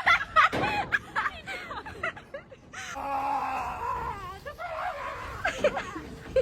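A man's wordless panicked cries, yelps and whimpers as he flees wasps.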